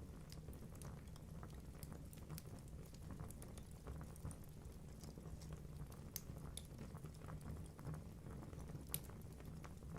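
Wood fire burning in a fireplace: a low steady rumble of flame with irregular sharp crackles and pops from the logs, one louder pop about nine seconds in.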